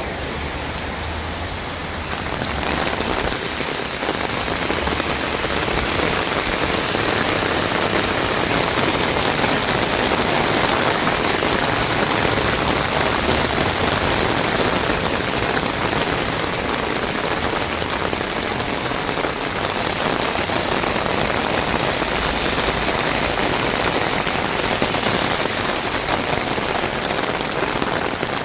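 Heavy rain pouring steadily, a dense even hiss of drops hitting surfaces, swelling a little over the first few seconds.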